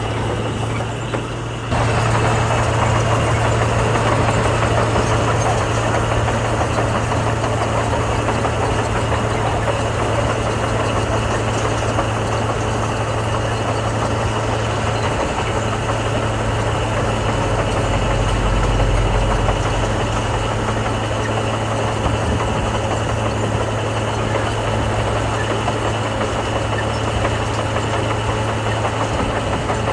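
Heavy diesel earthmoving machinery running steadily, a continuous low engine drone that gets louder about two seconds in, with a deeper rumble swelling briefly past the middle.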